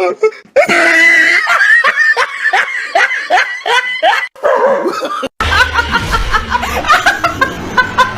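A person laughing hard in quick repeated bursts. After a cut about five seconds in, more laughter follows over a low hum.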